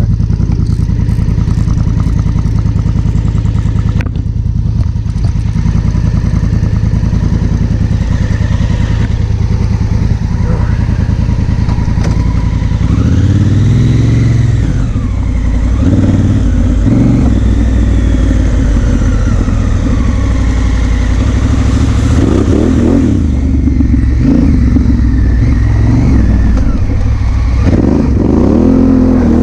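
Honda Africa Twin CRF1000L's 998 cc parallel-twin engine running on the move, with wind noise over the microphone. Steady at first, then from about halfway the engine note rises and falls repeatedly as it is revved up and shifted.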